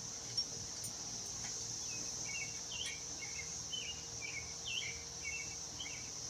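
Steady high-pitched drone of insects, such as crickets, with a bird calling a run of short chirping notes from about two seconds in. A single sharp click sounds near the start.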